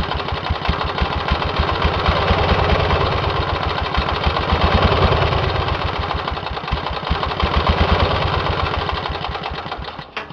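Briggs & Stratton 18 hp twin-cylinder engine running slowly on its single firing cylinder, with the cylinder head off the other cylinder. It makes a steady rapid beat and dies away near the end.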